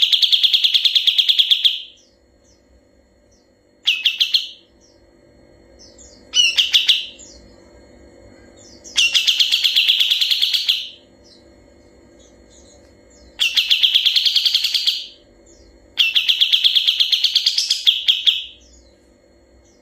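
Kapas tembak singing long, fast trills (ngebren): six bursts of rapidly repeated clear notes, each up to about two seconds long, with short pauses between them.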